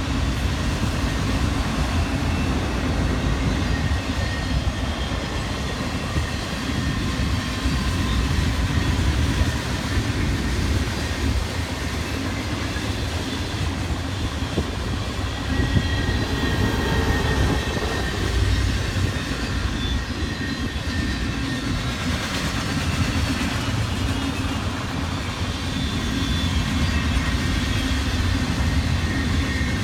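Train rolling past: a steady rumble of cars on the rails, with faint high-pitched tones drifting in and out.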